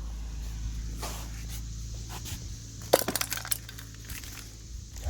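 A quick cluster of sharp metallic clinks and rattles about three seconds in, over a steady low hum.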